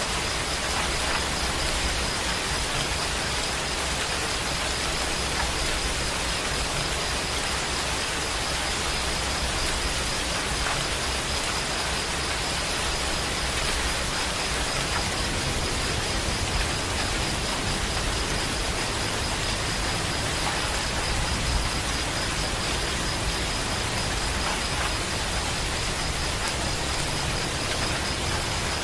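Steady rain falling, an even hiss of drops with no pauses, and a faint high-pitched tone running through it.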